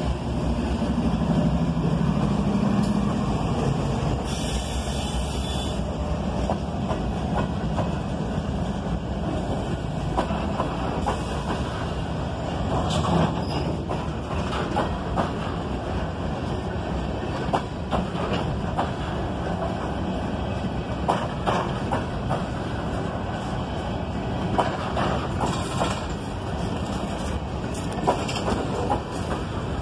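CSX coal train rolling past: a steady rumble of freight car wheels on the rails with irregular clicks and clacks over the rail joints.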